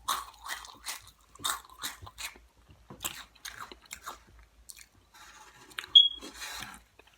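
Close-up crunchy chewing of Flamin' Hot Cheetos: a quick run of crunches about three a second at first, then slower, scattered crunches. Near six seconds a sharp click, the loudest sound, followed by a short hiss.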